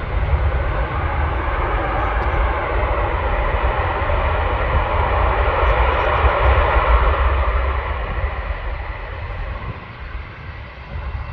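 Jet engines of an arriving Airbus A330-300 airliner: a loud, broad rush over a low rumble that swells to its loudest about six or seven seconds in and then fades away.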